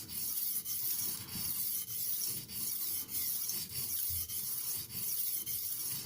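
Stainless steel knife blade stroked back and forth on a water-soaked Haidu HCJ white aluminium oxide whetstone (JIS 6000 grit): a steady fine scraping hiss in even strokes, about two a second. The stone's audio feedback is decent, not great.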